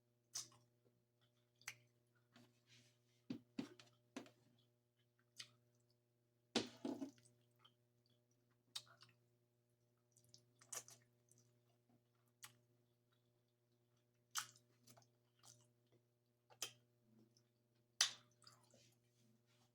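Close-up mouth sounds of someone eating: scattered wet smacks and chewing clicks, a dozen or more spread irregularly, the loudest about six seconds in and near the end, over a faint steady hum.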